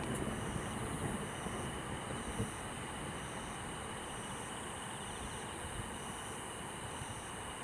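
Quiet night-time outdoor ambience: a low rumble fades over the first second or two into an even background hiss. Through it runs a steady high insect drone and a chirp repeating about once a second.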